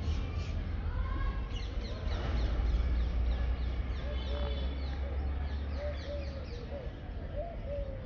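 Birds calling: a quick run of short, high, falling chirps through the middle, then a string of shorter, lower calls toward the end, over a steady low rumble.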